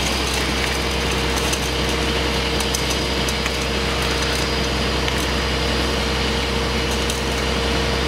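Concrete pump truck running steadily while pumping concrete: a constant engine hum with a steady whine that sets in about half a second in, and scattered sharp ticks over the top.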